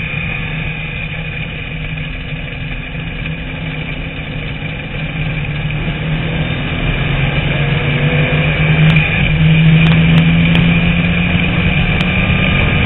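TVR Tuscan Challenge race car's engine heard onboard at racing speed. The note eases off early on, then grows louder and climbs in pitch as the car accelerates from about halfway.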